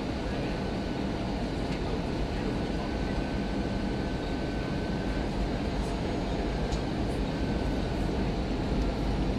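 Steady cabin noise inside an Airbus A319 airliner: an even rumble and rush of engines and airflow, with a few faint ticks.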